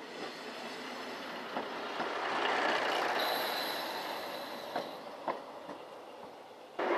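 Diesel railcar pulling out and running away down the line: a rumble that builds and then fades, with a few sharp clicks and a thin high whine for a couple of seconds in the middle. Near the end a louder, steady sound takes over suddenly.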